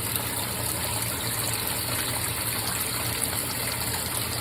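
Water gushing steadily into the tub of a GE top-load washing machine as it fills to the maximum water level, with a steady low hum underneath.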